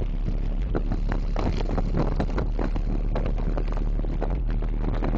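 Four 15-inch Digital Designs 500-series car subwoofers playing a steady, very deep bass note at high volume. Fast, irregular rattles and crackles run over it.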